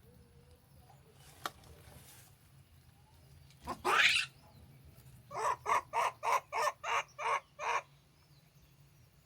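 Animal calls: one loud call rising in pitch, then a fast run of about ten short, harsh calls at roughly four a second.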